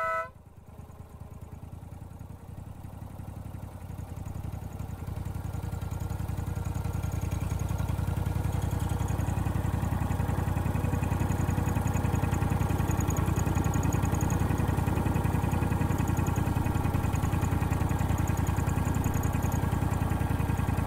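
Small gasoline engine of a 7.5-inch gauge club locomotive running steadily, growing louder over the first several seconds and then holding an even level.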